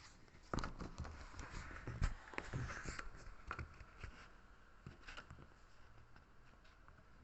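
Irregular clicks, taps and soft thumps, densest and loudest in the first two seconds, then sparser; close-up handling or movement noise.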